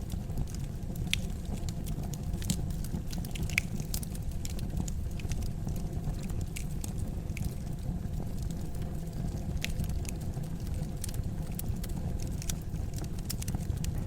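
Fire crackling in a fireplace: scattered sharp pops and snaps over a steady low rumble of the flames.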